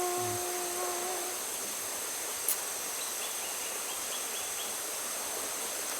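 Steady high-pitched drone of insects in rural outdoor ambience. A long, held call at one steady pitch rings out during the first second, a single sharp click comes about two and a half seconds in, and a few faint short chirps follow about a second later.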